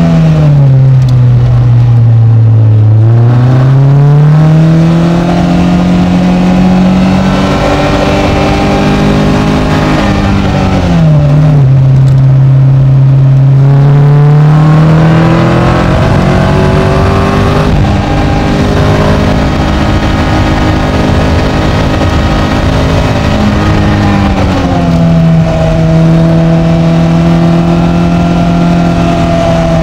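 Caterham Seven's engine heard from the open cockpit at speed: the revs drop for about three seconds, climb again, then rise and fall several more times with a few sudden steps, as the car brakes, accelerates and changes gear. A steady rush of wind noise runs underneath.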